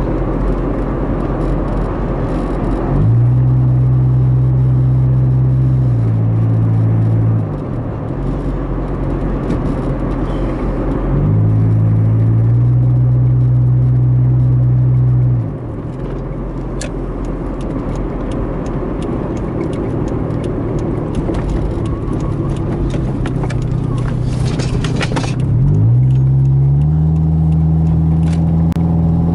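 Toyota MR2 driving on the highway, heard from inside the cabin: steady tyre and road noise with the engine note rising sharply and then holding under load three times, dropping back in between.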